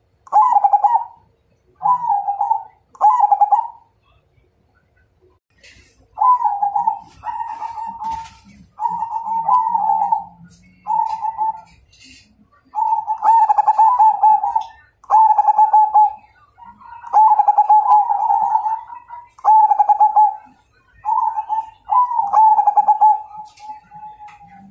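Zebra dove (perkutut) cooing: a series of short, trilling coo phrases around the same pitch, repeated in groups with brief pauses between them.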